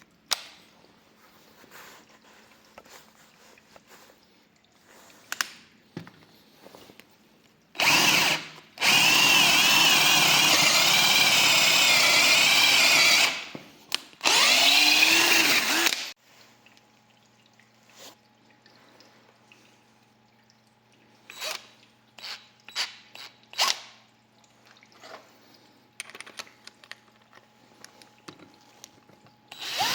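Parkside PABS 20 Li G8 cordless drill running in bursts: one run of about five seconds starting about a third of the way in, a short stop, then another couple of seconds. Small clicks and handling knocks come before and after, and the drill starts again at the very end.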